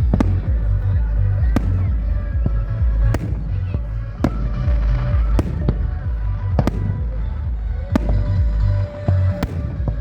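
Fireworks display: shells bursting in sharp bangs about once a second over a continuous low rumble.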